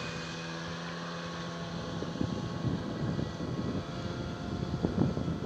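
Outboard motor on an inflatable boat running at a steady pitch, with rough wind buffeting on the microphone taking over after about two seconds.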